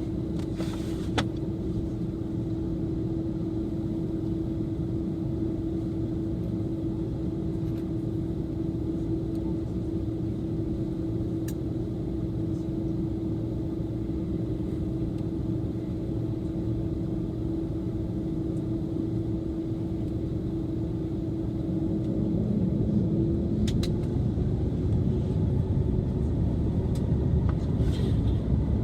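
Airbus A330 cabin noise heard inside the passenger cabin: a steady engine and ventilation hum with a constant tone. About three-quarters of the way through, the low rumble grows louder as the engines spool up toward takeoff.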